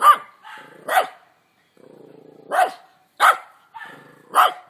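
A dog barking: five short, loud barks, with softer low sounds between some of them.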